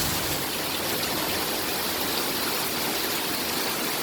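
Floodwater rushing down a street in a steady, even wash of noise.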